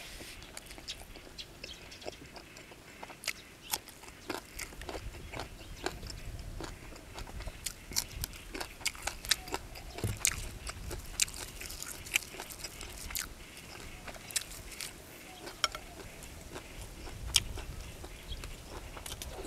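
Close-miked chewing: a person biting and munching mouthfuls of food, with many sharp crunches and wet mouth clicks scattered unevenly throughout.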